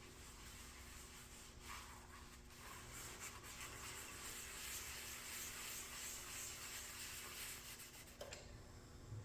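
Faint rubbing noise, with no pitch to it, building a few seconds in and stopping abruptly near the end, over a low steady hum.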